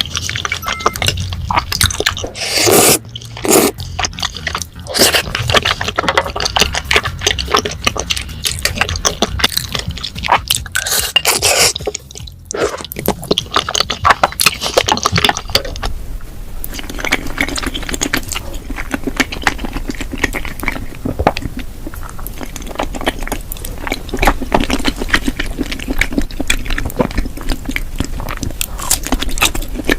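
Close-miked wet chewing and mouth sounds from eating cheesy rose tteokbokki, chewy rice cakes in a creamy sauce: dense, irregular smacks and squishes. The sound changes character about halfway through.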